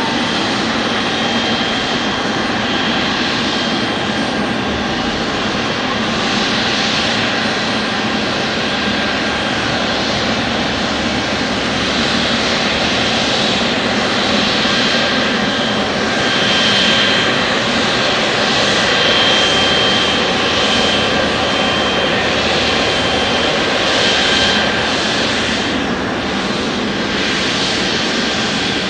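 Airliner engines running loud and steady: a dense rush with a thin, high whine that comes and goes above it, swelling slightly about two-thirds of the way through.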